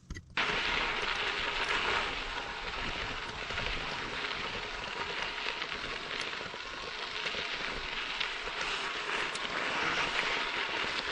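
Steady rushing, crackling noise of a bike riding on a gravel dirt road: tyres rolling over loose dirt and stones, with wind on the microphone. It starts suddenly about half a second in and cuts off abruptly at the end.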